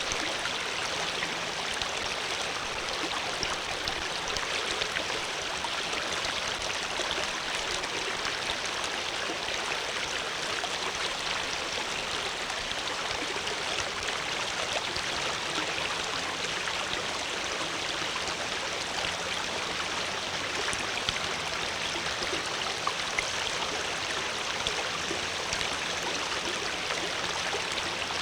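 Water flowing steadily: an even, continuous rush of moving water.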